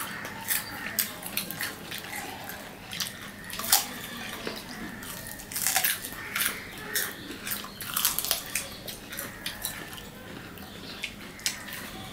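Close biting and chewing of crisp amra (ambarella) fruit, with irregular sharp crunches scattered throughout.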